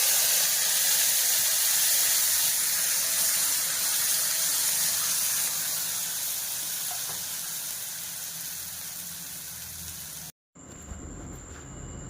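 Food sizzling in hot oil in a pan: a loud hiss that starts suddenly and slowly dies down as the pan settles, then cuts off about ten seconds in.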